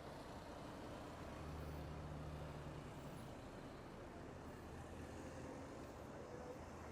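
Faint, steady outdoor background with the low hum of a motor vehicle's engine, strongest between about one and a half and three seconds in.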